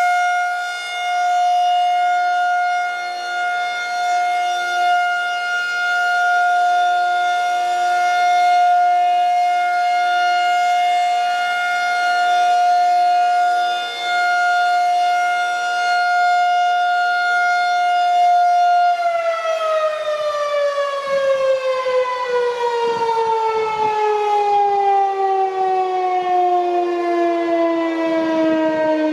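Federal Signal 2001-130 DC electromechanical siren sounding a steady alert tone, then winding down about 19 seconds in, its pitch falling steadily as the rotor slows.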